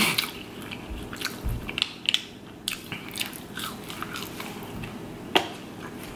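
Close-miked chewing of french fries dipped in sweet and sour sauce: a run of soft, irregular wet mouth clicks, with one sharper click about five seconds in.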